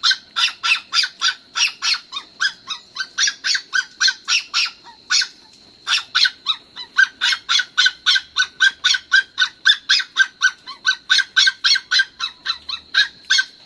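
A caged dog barking rapidly and without letup, short high-pitched yaps at about three or four a second, with a brief pause about five seconds in.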